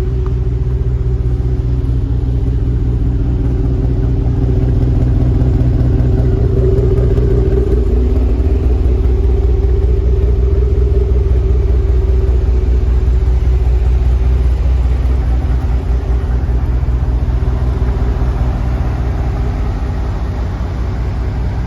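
1996 Nissan R33 GT-R's twin-turbo inline-six (RB26DETT) idling steadily after a cold start, the engine not having run for several days.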